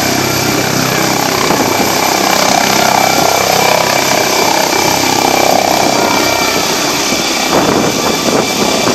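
Helicopter lifting off, its engine and rotors running loud and steady with a constant high whine.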